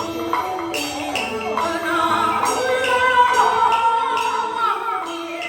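Beiguan Fulu-style opera music: a singer's voice sliding and wavering through long notes over a pitched instrumental accompaniment, with occasional sharp metal percussion strokes. The voice comes in about a second and a half in.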